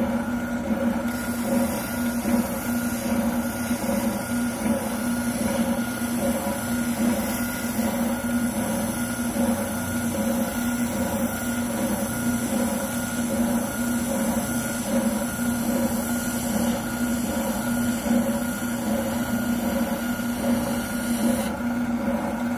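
Wilton oscillating sander running steadily with a constant motor hum and sanding noise, grinding down the edge of a shotgun buttplate so it fits the stock.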